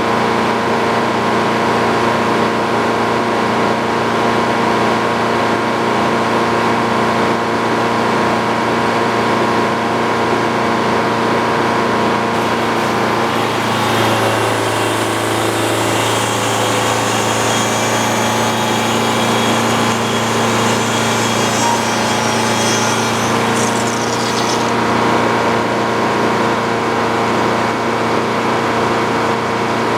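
Sawmill engine running steadily. About halfway through, the engine note shifts and a higher, harsher hiss joins for about ten seconds, consistent with the blade cutting through a beam, before it settles back to the steady running sound.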